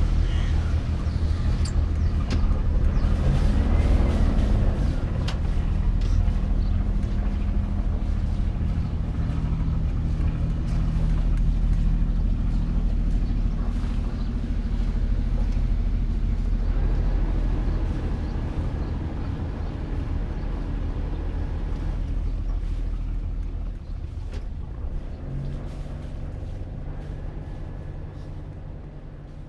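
A sailing yacht's inboard diesel engine running steadily while manoeuvring out of a berth, with a brief rising and falling whine about three to four seconds in. The engine note shifts near the end and gets quieter.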